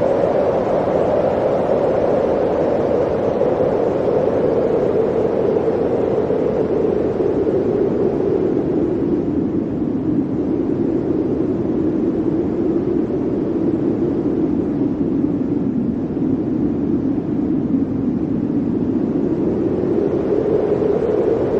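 Blizzard wind blowing steadily in a dense rushing noise. Its pitch sinks slowly through the middle and rises again near the end.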